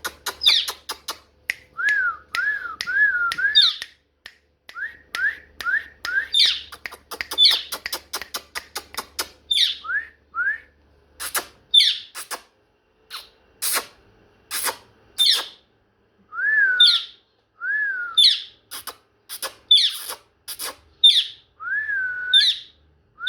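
Pet parrot calling over and over: sharp high chirps that sweep down in pitch, mixed with quick runs of lower whistled notes and short clicks, with brief pauses between bursts.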